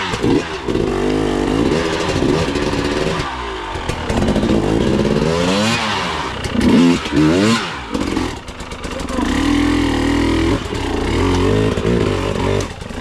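Enduro motorcycle engine under load, revving up and dropping back again and again with the throttle, its pitch rising and falling.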